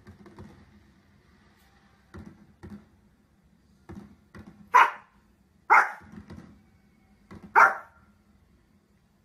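Small fluffy dog barking: a few faint short sounds in the first half, then three loud, sharp single barks in the second half.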